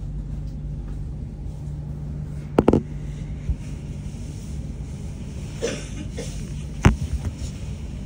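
Steady low hum and rumble inside a sprinter commuter train standing at a station platform, broken by a short cluster of sharp knocks about two and a half seconds in and another near seven seconds.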